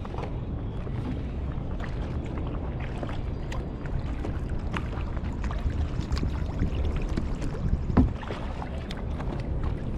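Kayak paddling: the paddle splashes in the water at irregular intervals over a steady low rumble of water and wind against the action-camera microphone. A single sharp knock about eight seconds in, likely the paddle striking the hull.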